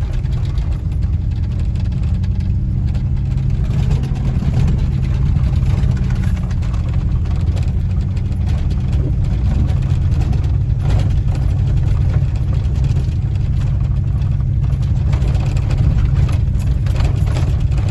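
Four-wheel-drive pickup truck running at low speed up a park road, heard from inside the cab: a steady low rumble of engine and tyres.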